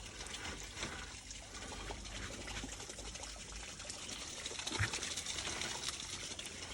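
Water trickling steadily, with many small irregular clicks and splashes.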